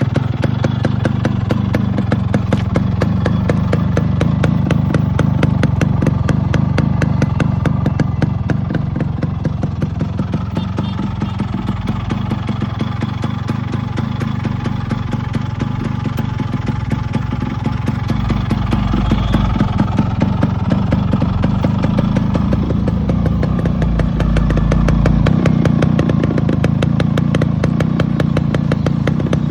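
Yamaha RX 100's two-stroke single-cylinder engine idling on a newly fitted cylinder kit, with a rapid, even run of exhaust pulses. The revs rise slightly a couple of times, around five seconds in and again near the end.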